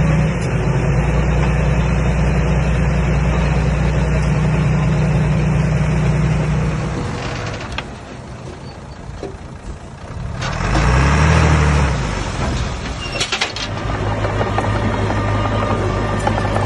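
Komatsu D21A bulldozer's diesel engine running steadily, then dropping away for a couple of seconds about halfway through. It then revs up and back down and gives a few sharp clicks before settling into a steady run again.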